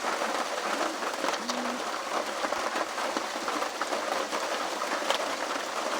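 Heavy rain falling steadily on the pheasant pen, a dense, even patter.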